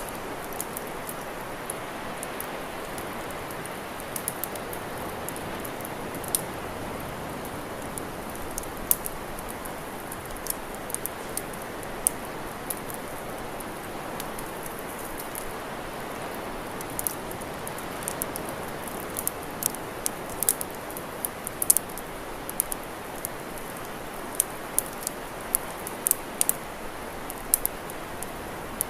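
Campfire crackling: irregular sharp pops and snaps, several a second at times, over a steady hiss.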